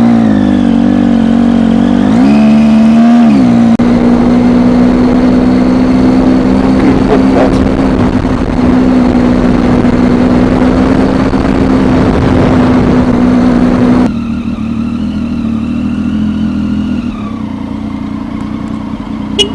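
Motorcycle engine running under way, with a steady rushing noise over it. Its pitch dips and climbs again a couple of seconds in, then holds steady. About fourteen seconds in it turns quieter, and the pitch falls near the end.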